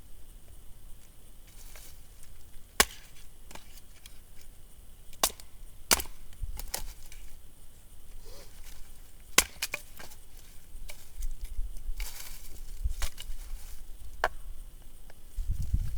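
Dense hardwood firewood being split: sharp wooden strikes at uneven intervals, a second or a few seconds apart, with the wood cracking as it splits.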